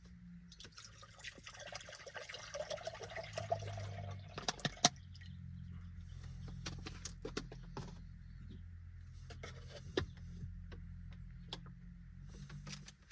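Water poured into a cup, rising in pitch as it fills, then a few clicks and a steady low electric hum that cuts off near the end, as water is readied for instant coffee.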